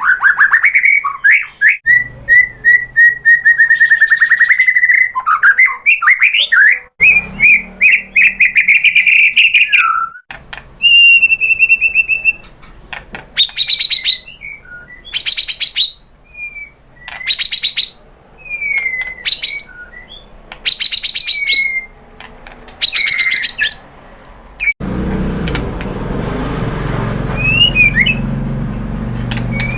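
White-rumped shama (murai batu) singing a long, varied song of loud whistles, pitch glides and fast rattling trills. About 25 s in the song stops and a steady rushing noise takes over, with only a few faint chirps.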